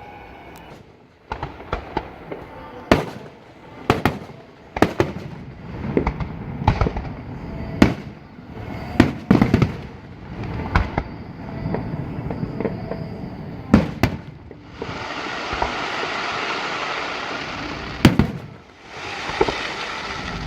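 Aerial fireworks shells bursting one after another: about a dozen sharp bangs, some close together, echoing. Near the end a steady hissing rush runs for about three seconds, then again briefly.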